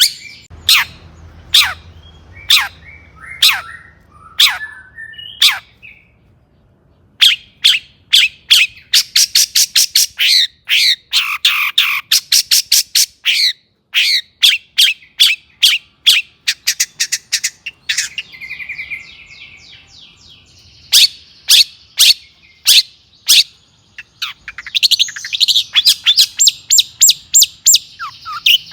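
Long-tailed shrike (cendet) in full, excited song: quick series of sharp, downward-sweeping notes and harsh chatter, with a short pause about six seconds in, a brief buzzy trill past the middle, and a dense run of chattering near the end.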